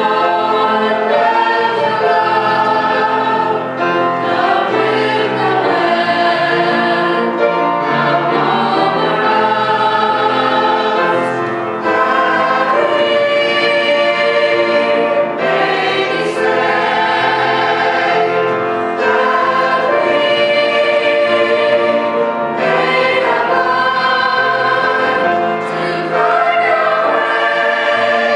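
A choir singing a hymn in several voice parts, in phrases about every three to four seconds.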